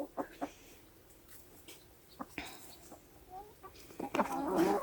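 Domestic hens clucking softly, a few scattered short calls, growing louder near the end.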